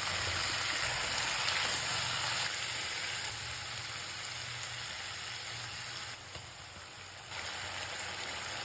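Food sizzling in a hot pan, a steady hiss that gets softer about two and a half seconds in and dips briefly about six seconds in.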